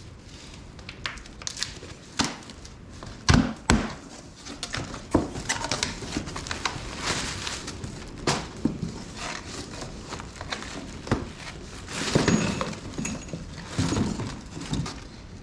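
Irregular knocks, clicks and rustling from engine parts and their packaging being handled, with two loud thunks about three and a half seconds in.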